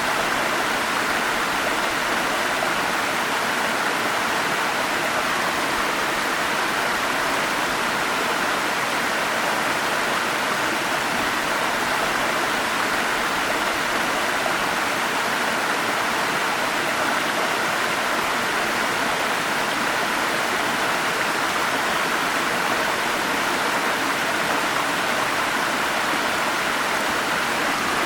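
Forest stream running over rocks: a steady, even rush of water with little deep rumble and no breaks.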